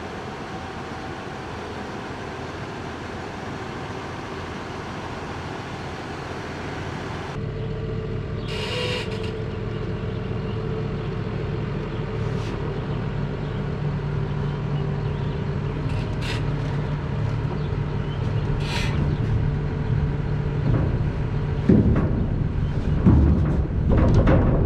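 Tractor engine running steadily, with a few short hisses and a run of knocks and thumps near the end.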